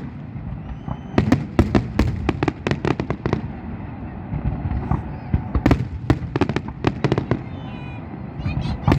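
Aerial fireworks exploding in a rapid, irregular series of sharp bangs and crackles over a continuous low rumble. The bangs thin out a few seconds in, then come thick and fast again from just past halfway.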